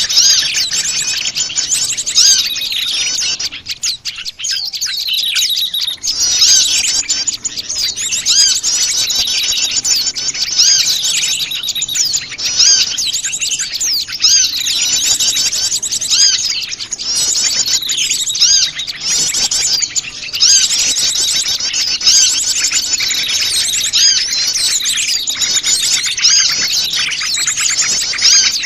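A dense, noisy chorus of many small wild birds chirping and twittering at once, with a brief lull about four seconds in. This is a mixed small-bird lure call (suara pikat), played to draw small birds close.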